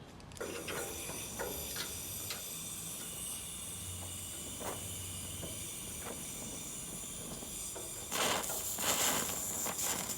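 Oxy-acetylene torch with a size-0 tip hissing steadily while tack-welding a sheet-metal door edge. The hiss grows louder about eight seconds in.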